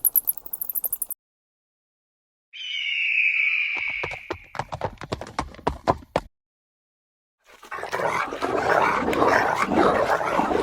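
Creature sound effects: a high held screech over a run of sharp clattering knocks, like hooves. After a pause of about a second, dogs start growling and barking in a dense, loud din.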